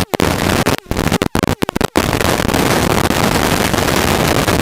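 Helicopter cabin noise in cruise flight: the steady engine and rotor noise is loud. In the first two seconds the sound cuts out briefly several times.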